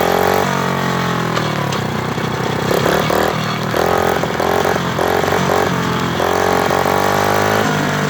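Motorcycle engine revving as the bike rides off, its pitch falling early on, then rising and dropping several times as the throttle is opened and closed.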